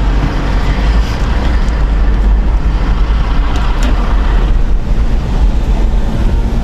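Steady car-cabin noise: the engine running with a deep, strong rumble and an even hiss over it.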